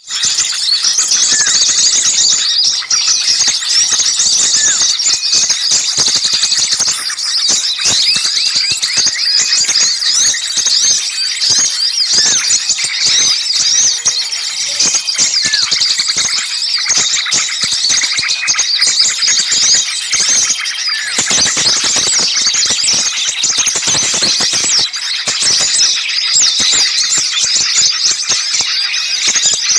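A dense, unbroken chorus of many small birds calling at once: high chirps, trills and short squeaky notes overlapping thickly. It is an agitated, noisy bird-lure mix of the kind played to draw small birds in.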